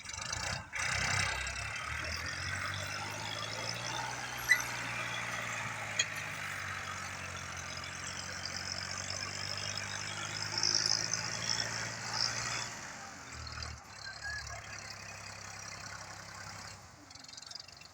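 Tractor engine running steadily under a layer of hissing noise, with two sharp clicks about a second and a half apart; its note shifts lower about thirteen seconds in and dies away near the end.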